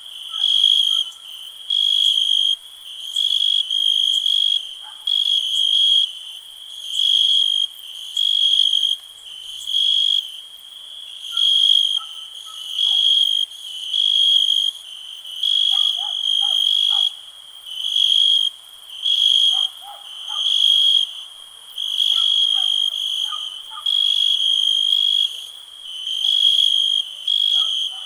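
Cricket chirping in a steady, high-pitched pulse, about one chirp every second and a bit, with fainter, lower insect chirps scattered in the background.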